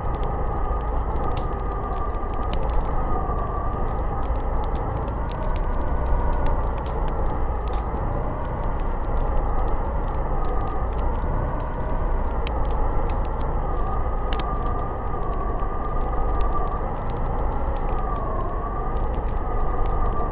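Snowstorm wind howling: a steady rushing roar with a whistling tone that slowly wavers up and down, and scattered small crackling ticks throughout.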